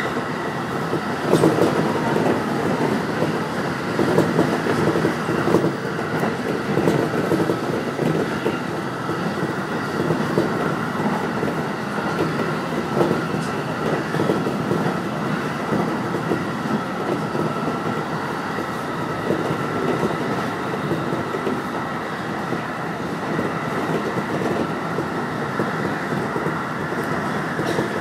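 Electric commuter train running on the Keiyō Line, heard from behind the driver's cab: a steady rumble of wheels on rail with a thin steady whine. It gets louder for a moment about a second in, as a train passes on the opposite track.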